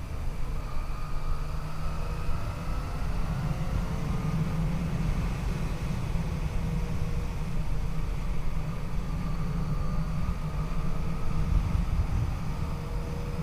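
Yamaha FJ-09's three-cylinder engine running at a steady cruise, its pitch drifting gently up and down, under heavy low wind rumble on the microphone.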